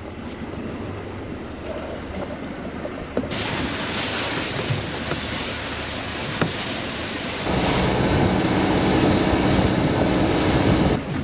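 Machinery and water noise aboard a small fishing boat: a steady rushing hum that steps up suddenly about three seconds in, grows louder again with a steady low hum about halfway, then cuts off sharply near the end.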